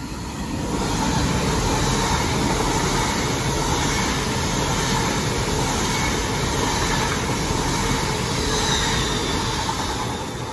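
LNER Azuma high-speed train running past on the rails, a steady rush of wheel and rail noise that swells about half a second in and fades as the end of the train goes by.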